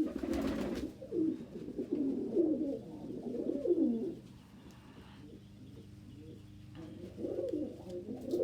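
Domestic pigeons cooing: low, looping coos come in runs, then pause and start again near the end. The coos are a male's stern warning to a rival male who has been bothering his mate. A brief rush of noise comes right at the start.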